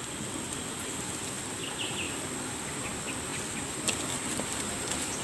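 Steady outdoor background noise with a high, even whine. A few faint short chirps come about two seconds in, and a sharp click near the end.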